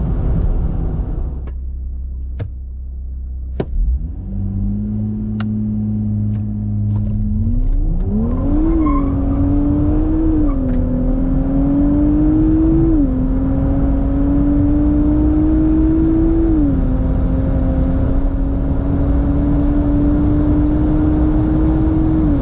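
Nissan Z's twin-turbo V6 held at raised revs, then launched flat out, rising in pitch through the gears with three quick upshifts before a long, slow climb in the last gear. A few sharp clicks come just before the launch.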